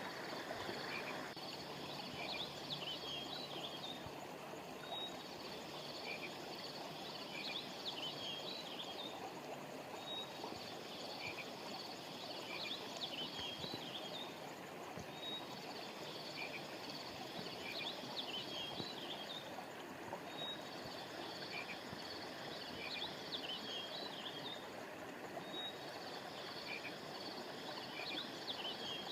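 River water flowing steadily, with a phrase of high chirping calls that repeats about every five seconds.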